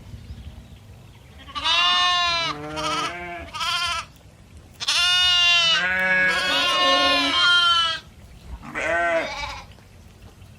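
Goats bleating: a series of wavering bleats, with one long bleat of about three seconds in the middle where a second goat's call overlaps.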